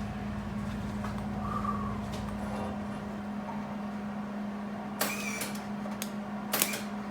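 Short bursts of MIG welding arc crackle from a Hobart Handler 190 over a steady hum: one about five seconds in and a shorter one about a second and a half later. The arc is striking on a rusty exhaust flange that, in the welder's words, wasn't cleaned off good enough.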